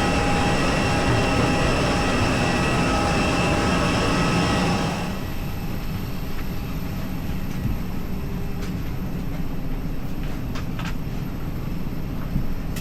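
Steady aircraft noise: a loud roar with several high steady whining tones, as from the engines or auxiliary power unit of an Airbus A320. About five seconds in it drops abruptly to a quieter steady cabin hum, with a few faint clicks near the end.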